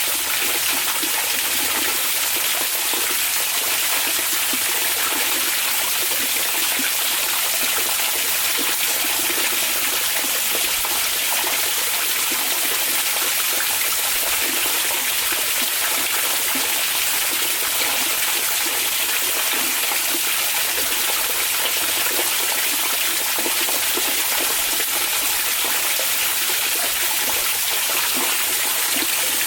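Hot-spring water pouring and splashing steadily into an onsen bath, an even rushing sound.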